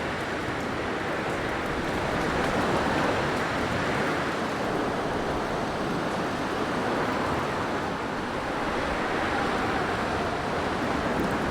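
Blizzard wind blowing steadily, a dense rushing noise that swells and eases in slow gusts.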